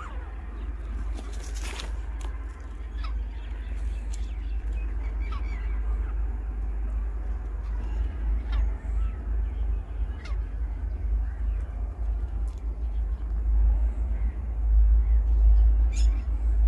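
Faint, scattered calls of wild birds over a steady low rumble that grows louder toward the end, with occasional short clicks.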